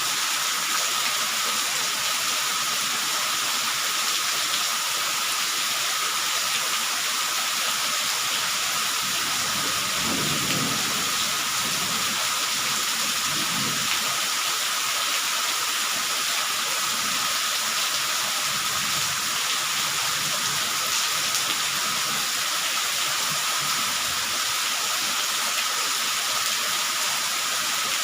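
Steady rain falling, an even hiss. A soft low rumble comes and goes from about ten seconds in.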